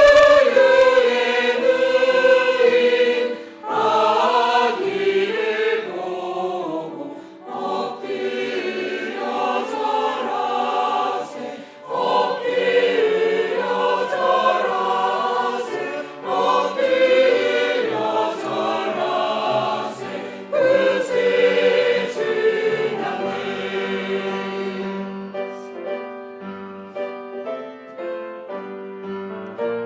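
Church choir singing a Christmas cantata in phrases with keyboard accompaniment. About 25 seconds in the voices stop and a piano plays on alone.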